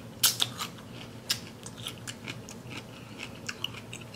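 Close-miked crunching and wet chewing of a cucumber from a seafood boil: a few crisp crunches in the first second and a half, then softer, clicky chewing.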